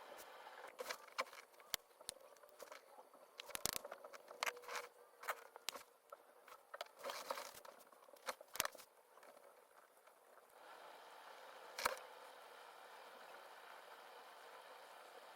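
Irregular light taps and clicks, as of small objects being handled, come thickly at first, then give way about ten seconds in to a faint steady hiss with one more sharp click.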